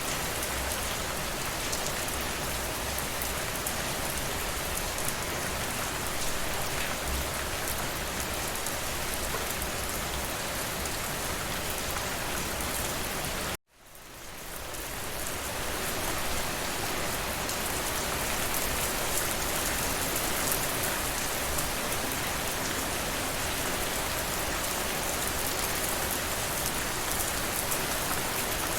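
Steady rainfall, an even hiss of drops on a surface. About halfway through it cuts out suddenly for an instant and fades back in over a couple of seconds, a splice in the looped recording.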